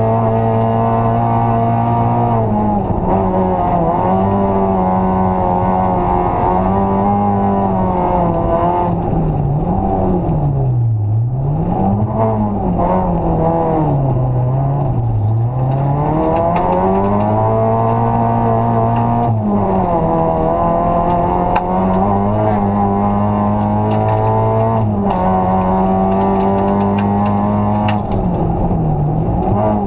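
Rally car engine heard from inside the cabin, running hard at high revs. The revs hold steady for stretches, then fall and climb again several times, dropping deepest twice around the middle, as the driver lifts off and shifts for corners.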